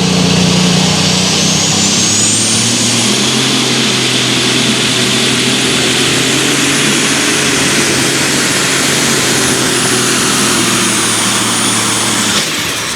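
Light super stock pulling tractor's turbocharged diesel engine running at full power down the track, with a high turbo whine that rises over the first few seconds and then holds steady. Near the end the engine drops off suddenly as the run ends.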